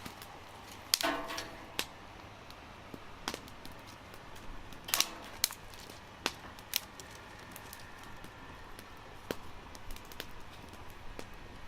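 Dry wood cracking and snapping: a scattering of sharp snaps at irregular intervals, the loudest about a second in and a cluster around five to seven seconds in.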